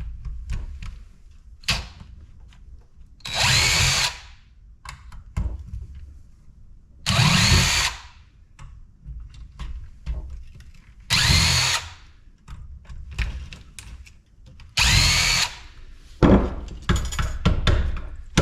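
Power drill run in four short bursts of about a second each, its pitch rising as it spins up each time, with small clicks between them. A run of knocks near the end.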